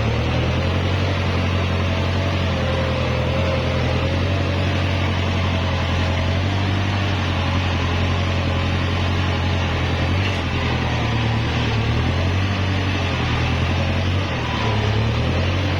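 Kubota tractor's diesel engine running steadily under load while pulling a disc plow, a deep even drone with a wavering whine above it.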